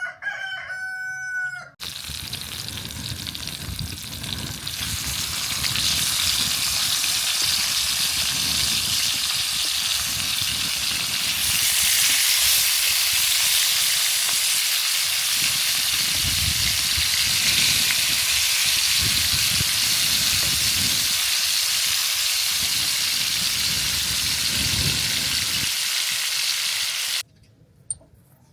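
A rooster crows for about two seconds, then food sizzles and fries in hot oil, growing louder over the next few seconds and cutting off suddenly near the end.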